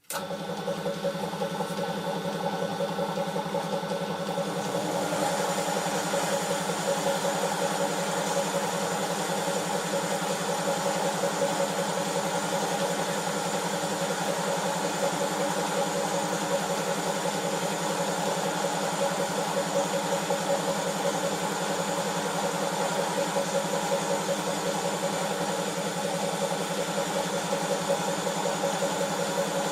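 Electric motor of a homemade belt sander running steadily, a continuous machine hum and whir with a slight shift in its higher tones about five seconds in.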